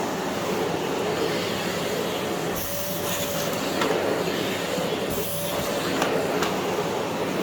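Philips PowerPro FC9331/09 bagless vacuum cleaner running steadily, its 900 W motor and airflow making an even rushing noise, with the hiss changing briefly twice.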